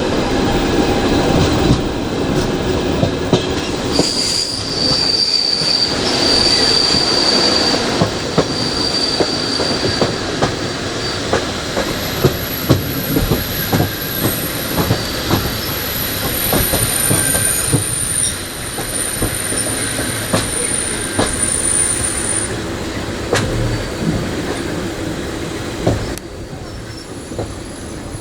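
Passenger train running on mountain track: a steady rumble with many sharp knocks as the wheels cross rail joints. A high-pitched wheel squeal comes and goes, from about four seconds in and again, higher, through the middle.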